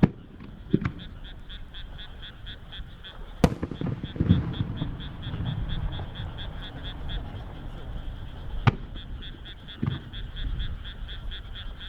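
Fireworks shells bursting with sharp bangs, about five of them, the loudest about three and a half and nine seconds in, each followed by a low rumble. Under them a frog calls steadily in rapid, evenly spaced pulses, about five a second.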